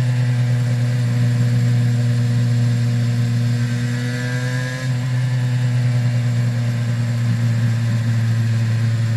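Aprilia RS 250's two-stroke V-twin with Arrow exhausts running at steady, fairly low revs. The pitch creeps up a little, then a brief dip about five seconds in, and it goes on steady.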